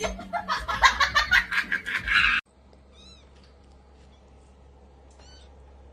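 Cat vocalizing loudly in a rapid run of cries that cuts off abruptly about two and a half seconds in. Two faint short chirps follow later.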